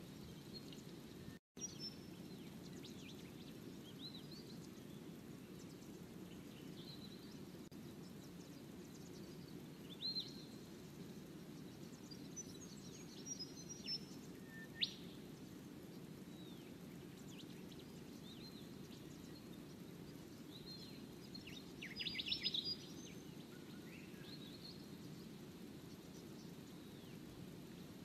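Small birds calling: scattered short chirps and thin whistles, with a quick rising whistle about fifteen seconds in and a fast run of chips about twenty-two seconds in, over a steady low hiss.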